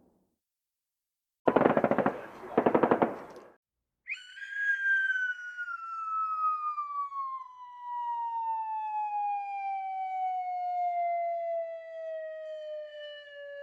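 Sound effects: a machine-gun burst in two rapid strings of shots, then a long pitched tone that starts high and glides slowly and steadily down in pitch, like a siren winding down.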